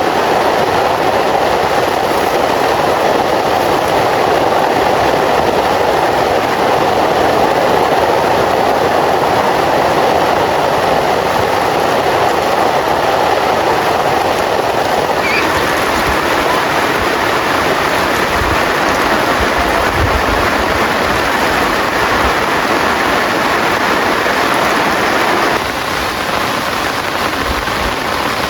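Heavy rain falling steadily in a dense, loud downpour, with a few low thuds in the second half. The sound shifts higher about halfway through and drops in level suddenly near the end.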